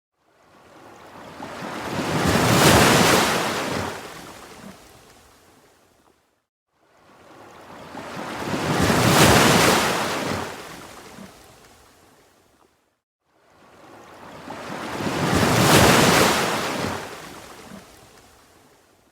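Ocean waves breaking, three in turn, each swelling up for about two seconds and washing away over about three. Between waves there is a brief near-silent gap.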